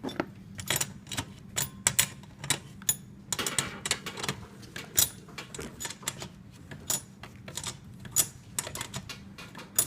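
Irregular clicks and clinks of metal hand tools and small engine parts being handled and knocked together, over a low steady hum.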